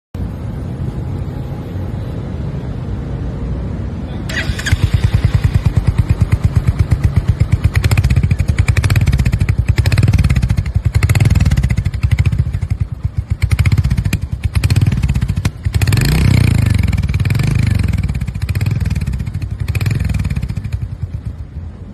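Royal Enfield Hunter 350's single-cylinder engine idling, then revved again and again from about four seconds in, the exhaust note rising and falling with each blip of the throttle.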